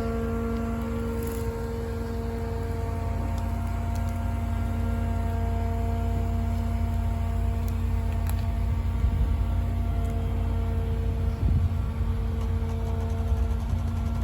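A heavy engine running steadily: a low rumble with a held whine over it.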